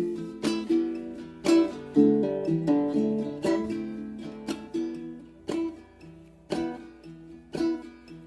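Instrumental music: an acoustic string instrument strummed in a steady rhythm, with a sharp chord stroke roughly every second and the notes ringing between strokes.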